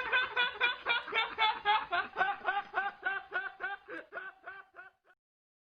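A snickering laugh, short pitched 'heh' pulses at about four a second, fading steadily until it stops about five seconds in.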